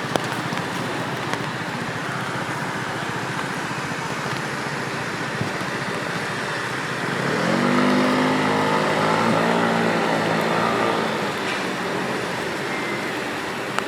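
Steady rain with the hiss of wet pavement. About seven seconds in, a car passes, its engine note rising and then holding for a few seconds before fading back into the rain.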